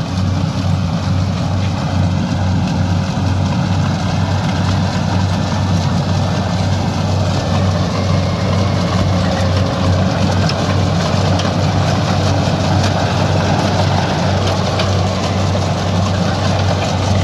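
Rice combine harvester's diesel engine running steadily, a loud, unbroken deep hum with a noisy mechanical rush above it.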